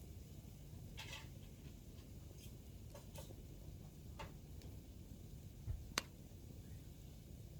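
Hardwood campfire burning, a low steady rumble under scattered crackles and pops of the firewood, the sharpest pop about six seconds in.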